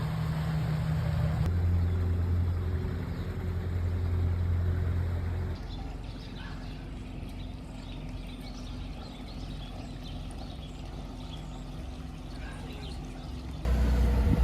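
Steady low engine hum, changing abruptly a little over a second in and dropping away about five seconds in to a quieter steady background with faint, scattered high chirps like small birds.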